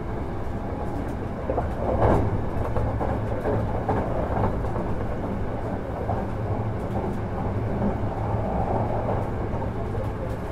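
Hankyu 1000 series electric train running at speed, heard from inside a carriage: a steady rumble of wheels on rail with a few clacks, the loudest about two seconds in.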